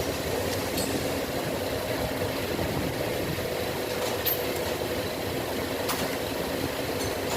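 An engine idling steadily, with a constant hum, and a few faint light clicks scattered through it.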